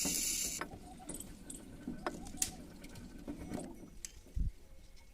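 Metal tools and gearbox parts being handled: scattered sharp clicks and clinks, opening with a loud hiss that stops about half a second in, and one dull thump near the end.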